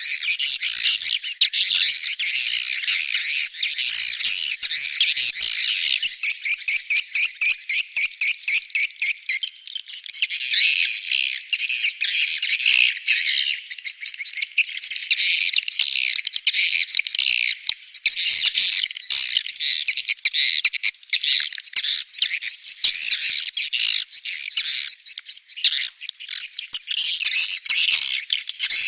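Edible-nest swiftlets calling in a dense, continuous chatter of high-pitched chirps and twitters, with a fast, even run of pulsing chirps about six seconds in that lasts some three seconds. This is a swiftlet breeding call of the kind played as a lure in swiftlet houses.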